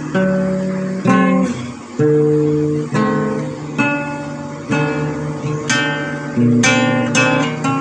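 Acoustic guitar music: chords strummed, a new chord struck about once a second and left to ring.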